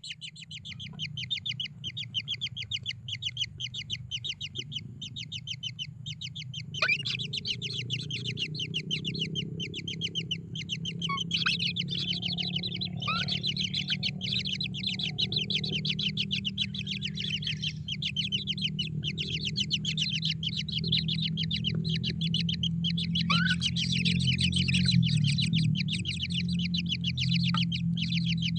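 Kingfisher chicks begging for food with rapid, continuous, evenly repeated high chirping, which grows louder about a quarter of the way in. A steady low hum runs underneath.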